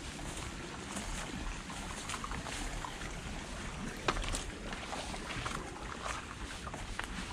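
River water flowing over rocks: a steady rush with many small splashes and gurgles.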